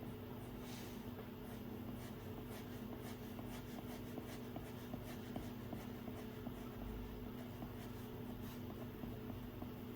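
Stylus drawing on an iPad's glass screen: faint, irregular taps and short strokes, a few each second, over a steady low hum.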